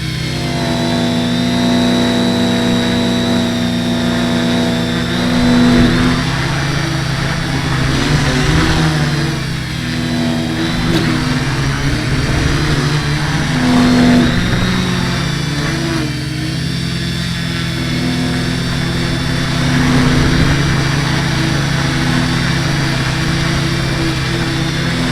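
H-frame quadcopter's electric motors and propellers running with a steady buzzing hum, pitch and loudness rising and falling several times as the throttle changes. The owner is asking where the buzz comes from and suspects the propellers.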